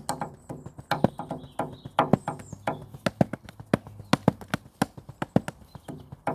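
Drumsticks playing an improvised, uneven pattern of quick strokes, several a second, each hit with a short ring.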